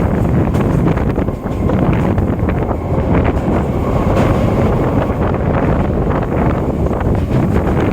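Indian Railways EMU local train running at speed, heard on board: wind buffeting the microphone over a steady rumble of wheels on track, with scattered clicks.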